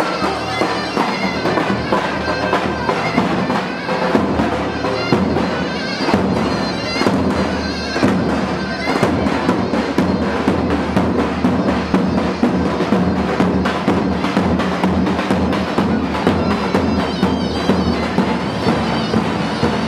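Loud traditional music of zurna and davul: the shrill reed pipe plays on over steady, rapid beats of the big drum.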